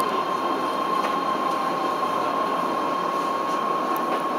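Keihan 10000-series car 10101, a rebuilt 7200-series car with IGBT-VVVF control, rolling slowly into a station. Its steady running noise carries a constant high whine.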